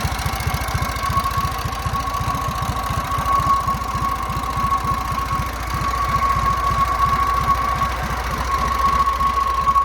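1956 JAP Model 55 stationary engine, run on TVO, running steadily and driving a 5 kW generator, with even firing beats and a steady high whine over them.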